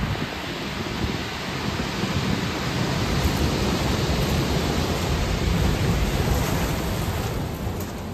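Rough sea surf churning and breaking under a strong wind: a dense, rumbling rush of noise that swells from about three seconds in and eases near the end.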